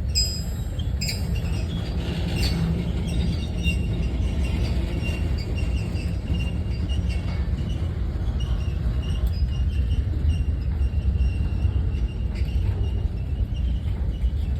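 A train running by with a steady low rumble and a faint high squeal from the wheels.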